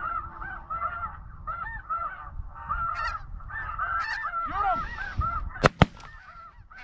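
A flock of geese honking continuously, with many overlapping calls. Near the end, two shotgun shots go off in quick succession and are the loudest sounds, and a third shot comes right at the end.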